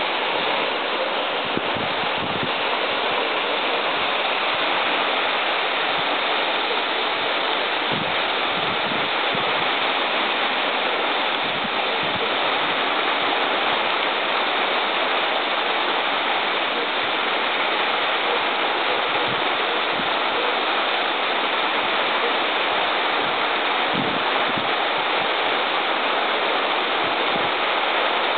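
Waterfall pouring steadily, an even rush of falling water with no let-up.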